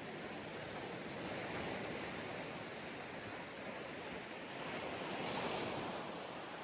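Sea waves breaking and washing up a beach: a steady hiss of surf that swells twice, most strongly about five seconds in.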